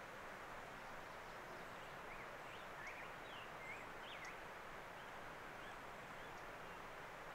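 Faint outdoor ambience: a steady background hiss with a scattered handful of short, high bird chirps, most of them in the middle.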